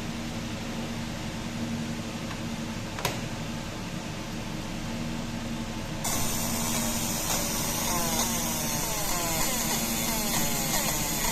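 Desktop fiber laser marking machine: a steady fan hum with a single click about three seconds in. About halfway through, marking starts abruptly, adding a hiss and a fast run of short repeating chirps that lasts to the end.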